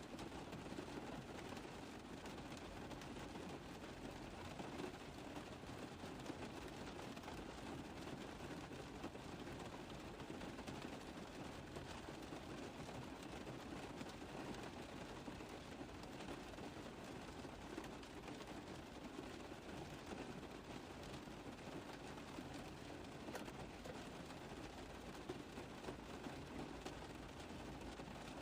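Rain drumming steadily on a car's roof: a dense, even patter of many small drops hitting metal, with no let-up.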